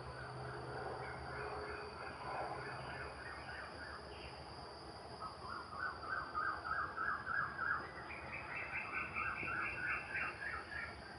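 Animal chirping: overlapping trains of short repeated notes at a few different pitches, about five a second, the loudest train in the middle and a higher-pitched one joining near the end.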